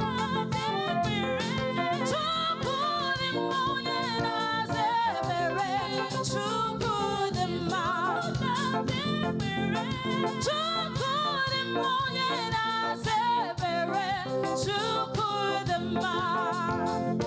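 Live church praise music: singing voices with a wavering pitch over a band, driven by a quick, steady percussion beat.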